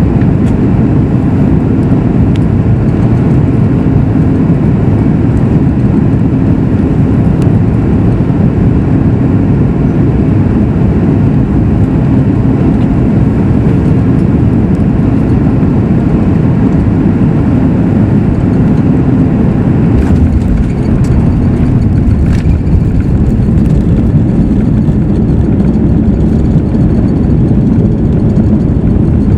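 Loud, steady low rumble inside the cabin of a Boeing 737 MAX 8 as the airliner lands or rolls out. Engine and airflow noise blend together, with a faint steady hum and a few light clicks about two-thirds of the way through.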